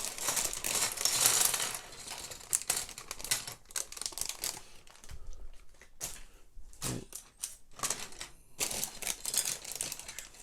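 Plastic crinkling for about the first two seconds, then small plastic Lego Technic pieces clicking and clattering against each other as they are handled.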